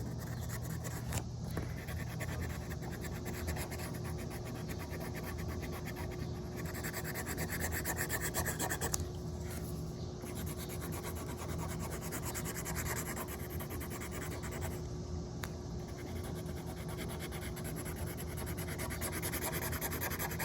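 Marker tip rubbing back and forth on paper in fast, continuous scribbling strokes, coloring in a drawing.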